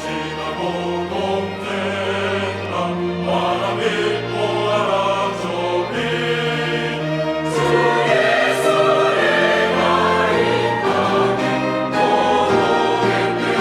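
Church choir singing a hymn-style anthem with piano, organ and a small orchestra of strings, woodwinds and horn, in sustained, steadily loud harmony.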